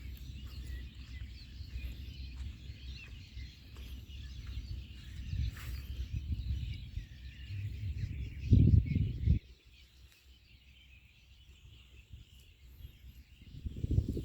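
Birds chirping and calling in the background, under a low rumble on the microphone that swells to its loudest about nine seconds in and then stops abruptly, leaving the birds alone.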